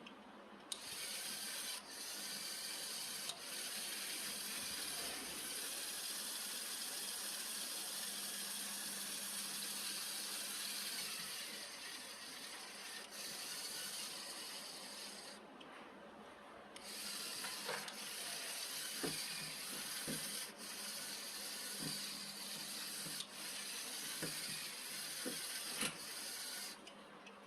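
Two small electric motors of a homemade model tractor running on a test drive through a rubber-band belt drive, a steady scratchy whir with a faint hum. The noise dips briefly around the middle, and a few clicks come in the second half.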